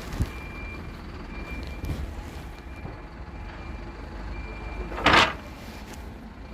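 Vehicle engine running low with a reversing alarm beeping on and off, amid sawmill yard ambience. About five seconds in, a short loud burst of noise stands out above it.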